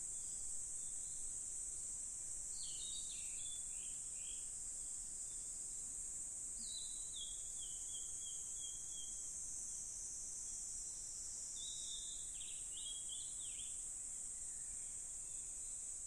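Steady high-pitched insect chorus, with a songbird singing three short phrases of quick notes over it, a few seconds apart.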